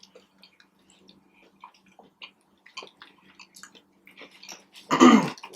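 Close-miked chewing of a fried chicken sandwich, with soft wet smacks and clicks of the mouth. About five seconds in comes one short, louder throaty sound.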